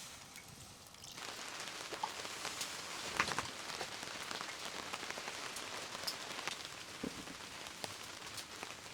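Rain falling on a surface, many separate drops ticking over a steady hiss. It comes in suddenly about a second in.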